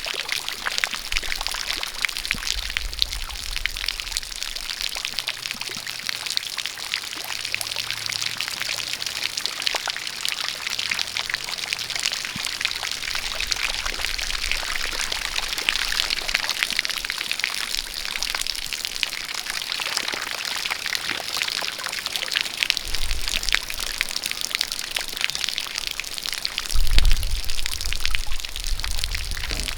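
Rain falling steady and dense, with a jet of water pouring, full of fine individual drop patters. A brief low rumble comes near the end.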